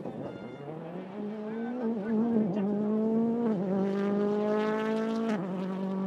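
Rally car engine accelerating hard, its pitch climbing through the gears, with quick gear changes about three and a half and five and a half seconds in.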